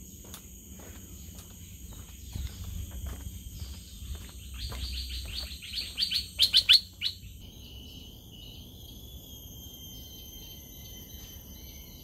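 Tropical forest birdsong over a steady high-pitched insect drone. A bird repeats a short call note, the notes coming faster and louder until they stop about seven seconds in, while the insects keep on.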